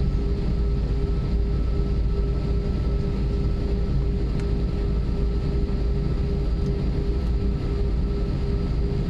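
Airbus A320 cabin noise: the jet engines and airflow make a steady low rumble with a constant hum, holding even throughout.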